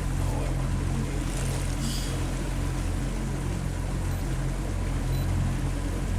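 Small boat's motor running steadily as the boat pushes upriver, a low even drone, with the rush of moving water along the hull.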